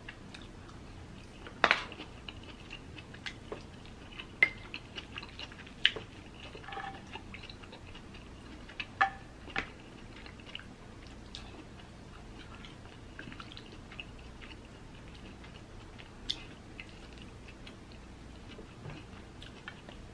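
Chewing of seafood and rice, with a few sharp clicks scattered through from a wooden spoon and utensils against the dishes; the loudest click comes about two seconds in.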